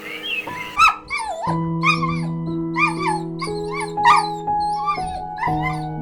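A canine giving short, high whining yips, about two a second, starting about a second in, over soft piano music with held notes.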